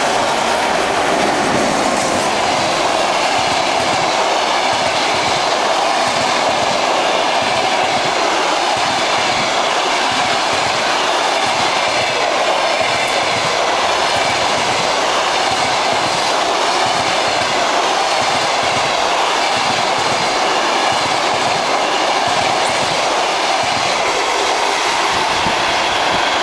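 Express passenger train passing at speed behind a ChS2T electric locomotive. Its coaches' wheels make a loud, steady rush on the rails, with a rapid, even clickety-clack over the rail joints.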